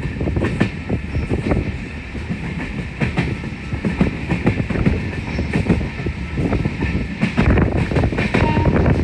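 Passenger train running, its wheels clattering over the rail joints: a steady low rumble with many irregular clicks and knocks.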